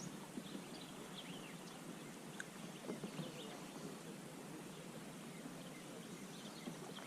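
Kayak paddling on a lake: soft paddle splashes and knocks, most noticeable about three seconds in, over a steady hiss of water and wind, with scattered faint bird chirps.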